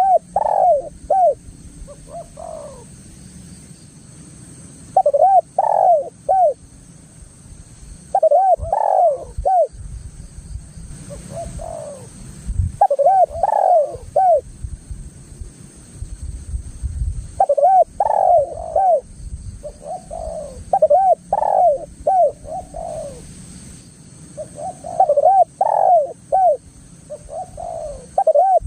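Spotted dove (tekukur) cooing in repeated phrases of several quick coos, a new phrase every few seconds, over a low rumble.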